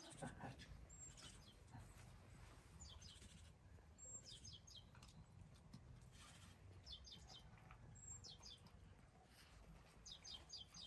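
Near silence with a small bird calling faintly: about five short runs of quick, high chirps spaced a second or two apart.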